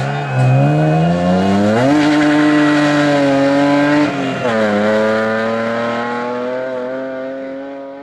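Rally car engine under hard acceleration: the revs climb, hold, drop sharply at a gear change about four seconds in, then climb slowly again, fading out near the end.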